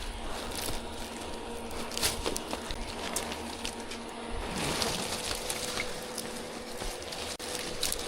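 Honeybees buzzing in a steady low hum, with scattered light clicks and rustles.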